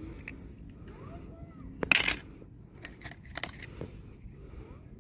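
A short burst of crinkling packaging about two seconds in, followed by a few light clicks and taps of small plastic pieces being handled.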